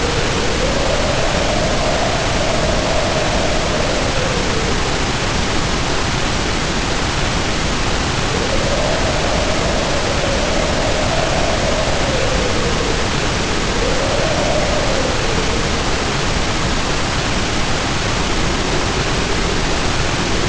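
Heavy rain pouring as a steady hiss, with wind howling over it in slow gusts that rise and fall in pitch, four gusts in all, the last one starting near the end.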